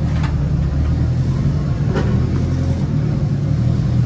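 Turbocharged Honda K24 four-cylinder engine running at a steady idle in first gear, driving the all-wheel-drive drivetrain so the wheels turn: a steady low rumble. A faint click comes about two seconds in.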